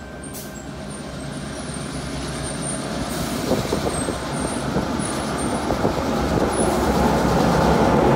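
Diesel locomotive 4201 hauling a heritage passenger train through the station, growing steadily louder as it approaches, while a Tangara electric suburban train moves on the adjacent track. Scattered clacks come through about halfway in.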